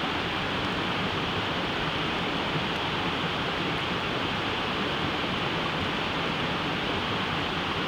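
Steady, even rushing hiss with no distinct crackles or pops.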